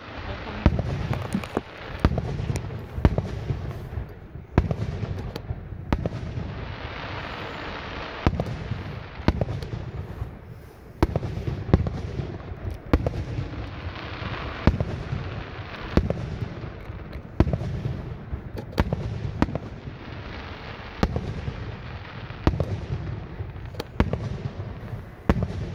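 Aerial fireworks shells bursting overhead in a steady barrage, a sharp boom about every second. Twice there is a stretch of dense crackling hiss among the booms.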